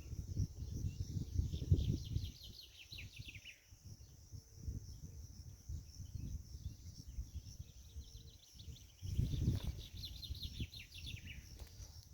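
A bird singing two trills that fall in pitch, a few seconds apart, over a steady high drone of insects. Underneath is a gusty low rumble.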